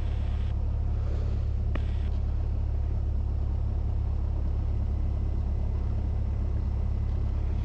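Cessna 172S's four-cylinder Lycoming engine and propeller holding a steady, low drone in cruise, as heard in the cockpit audio feed, with one brief click about two seconds in.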